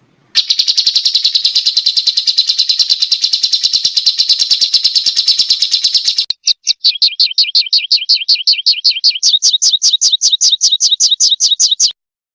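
Small songbird's rapid 'tembakan' trill: a very fast, high chattering trill for about six seconds, then after a brief break a slower trill of two-part notes, cutting off just before the end.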